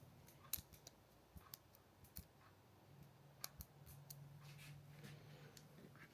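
Near silence with a faint low hum and scattered small clicks and ticks, about a dozen, irregularly spaced.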